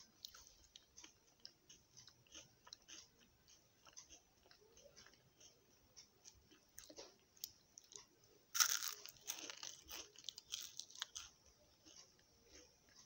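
Chewing and biting of crunchy chocolate-coated wafer, with small crunches throughout and one loud crunchy bite about two-thirds of the way in, followed by a couple of seconds of denser crunching.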